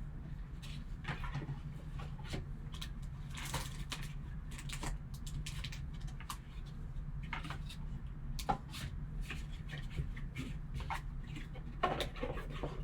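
A trading-card box and its packaging being opened and handled by hand: scattered rustles, light clicks and small knocks, over a steady low hum.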